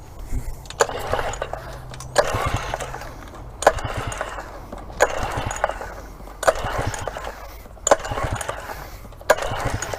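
A single-cylinder Yamaha outboard engine is cranked over by its pull-cord starter with the spark plug out and a compression gauge in the plug hole, so it turns without firing. The pulls come about every second and a half, each a sharp click followed by a whirring rush.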